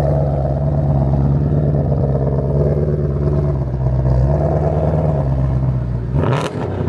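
A car engine idling steadily, a low, even hum that shifts slightly about four seconds in. It stops near the end with a brief sharp clack.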